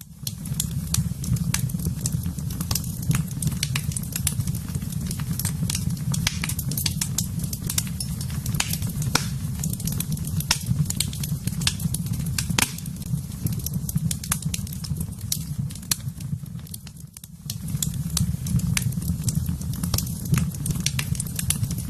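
Wood fire crackling in a fireplace: irregular sharp pops and snaps over a steady low rumble of the flames. The rumble drops away briefly about 17 seconds in, then returns.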